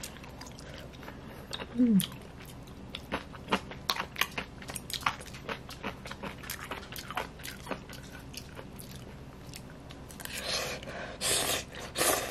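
A person eating a mouthful of chewy hand-cut noodles in hot, thick fish soup: close-up chewing with many small clicks, and breathy sounds near the end.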